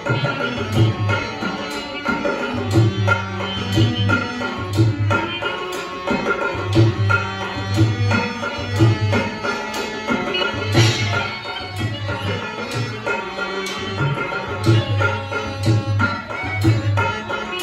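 Traditional Rajasthani folk music played live: a hand drum beats a steady, driving rhythm under sustained melodic tones, with an occasional bright clash.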